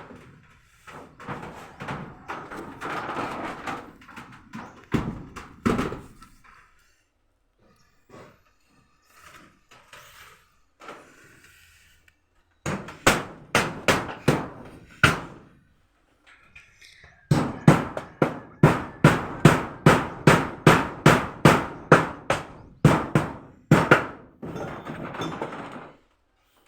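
Hammer blows: first a run of about seven strikes, then after a pause a longer, steady run at two to three strikes a second. Before that come scattered knocks and handling noise.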